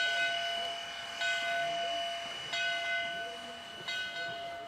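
Steam locomotive bell ringing steadily as the engine backs out, four strokes about a second and a quarter apart, each one fading, over a steady high tone. The bell is rung as a warning while the train moves.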